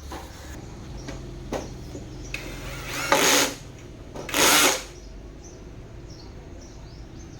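A small electric motor whirs in two short bursts, about three seconds and four and a half seconds in, over a steady low hum.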